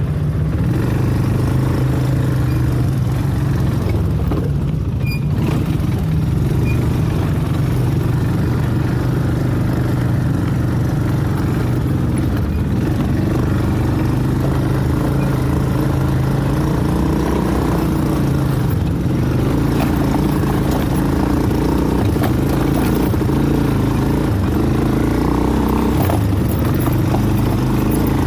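An ATV engine running steadily at low speed while riding along a trail, its pitch shifting only a little.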